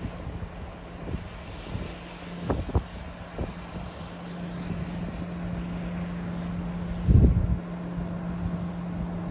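Diesel locomotive engine running with a steady low drone, while wind buffets the microphone with low thumps, the loudest about seven seconds in.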